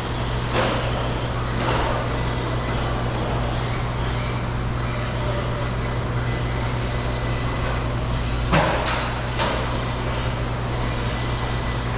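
Radio-controlled stadium trucks running on the track: steady motor and tyre noise over a constant hum, with a few sharp knocks, the loudest about eight and a half seconds in.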